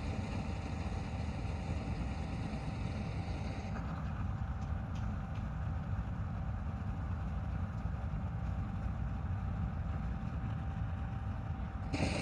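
Combine harvester running steadily in a paddy field: a deep engine rumble with a faint steady whine. The higher part of the sound drops away about four seconds in and comes back loud near the end.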